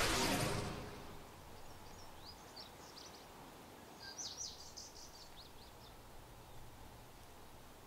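The tail of a loud music-and-crash passage fades out over the first second. It leaves faint outdoor ambience, with several short, high bird chirps a couple of seconds in and again around the middle.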